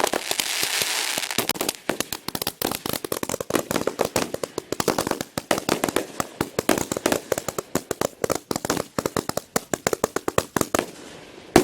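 Consumer multi-shot fireworks packs firing a rapid, dense barrage of bangs and crackles that stops shortly before the end, followed by one last loud bang.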